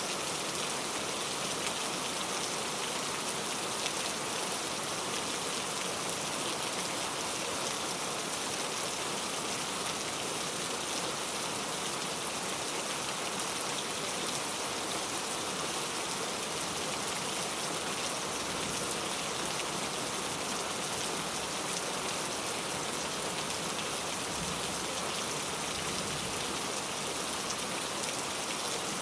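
Steady rain falling on a surface: an even hiss with a fine pattering of drops, unchanging throughout.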